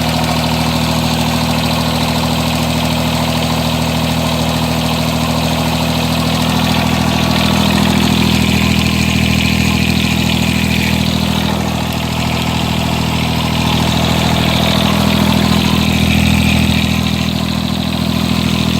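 John Deere 330 lawn tractor's three-cylinder diesel engine running steadily just after a cold start in freezing weather, its level swelling slightly a couple of times.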